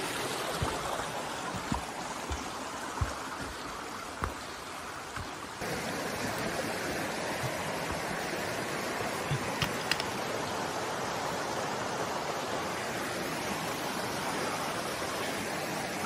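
Mountain stream rushing steadily over stones, with a few short sharp knocks in the first few seconds and again about ten seconds in. The rushing steps up suddenly about six seconds in.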